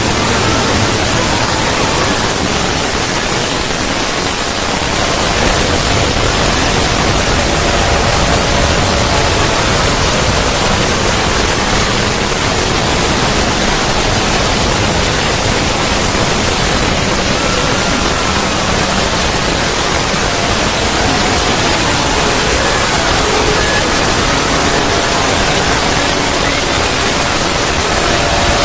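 A synthesized 'void' ambience sound effect: a steady, loud rushing noise like static or pink noise, with faint tones drifting in and out underneath.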